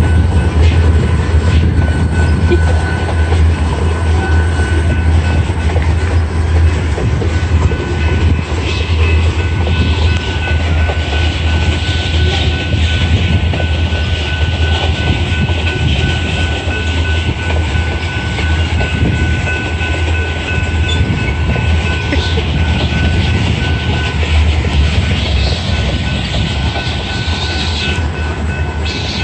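Train rolling past, a steady heavy rumble of the cars on the rails with a thin, steady high whine running over it.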